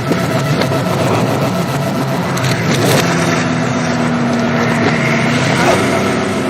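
Car engines and road noise from a film car-chase soundtrack, played in reverse: a dense, steady mix with held engine tones.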